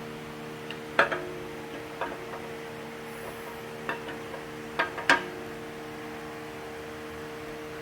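Camshaft of a Ford 2300 engine being slid into its cam bearings: about half a dozen short metallic clicks and knocks as it goes in, over a steady hum.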